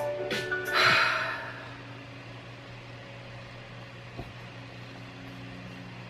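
A brief hissing swell about a second in, at the tail of a music clip, then a steady low mechanical hum of room noise.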